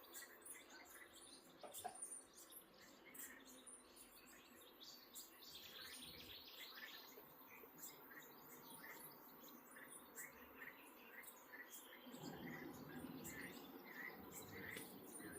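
Faint nature ambience of small birds chirping. A short chirp repeats about twice a second over thin high ticking, and a faint low rushing sound comes in near the end.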